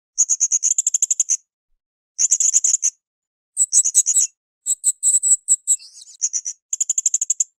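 Blue-crowned hanging parrot (serindit) calling in rapid, shrill, high-pitched chirps, about ten notes a second. The notes come in bursts of around a second with short pauses between, and the bursts are more broken and slurred near the middle.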